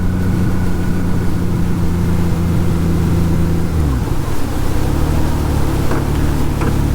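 Honda Gold Wing GL1800 flat-six engine running steadily under way, over a steady rush of wind and road noise. About four seconds in the engine note drops and then settles lower, as with a gear change or easing off the throttle.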